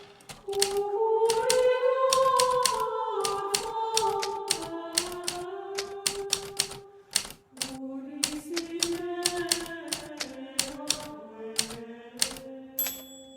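Hermes Baby manual typewriter typing steadily, its keys striking several times a second, with a short high bell ring near the end. A slow melody of held notes plays underneath.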